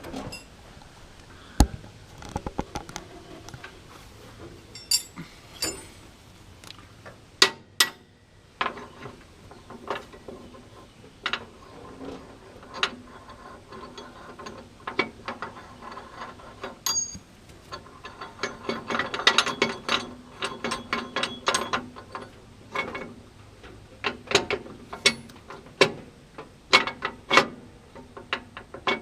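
Hand socket ratchet clicking in short runs as fasteners on the tractor's loader mounts are worked loose, with scattered sharp metal knocks between runs.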